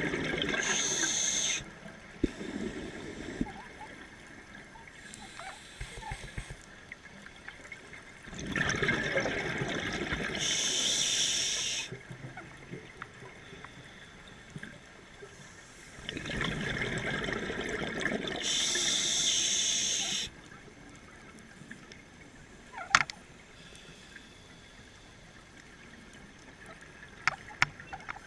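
Scuba diver breathing through a regulator underwater: three breaths about eight seconds apart, each a rush of bubbling and gurgling that ends in a high hiss. A single sharp click sounds between the second and third breaths.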